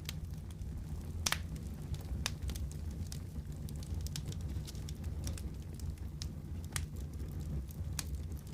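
Wood fire crackling in a fireplace: a steady low rumble of flames with irregular sharp pops and snaps, one louder snap about a second in.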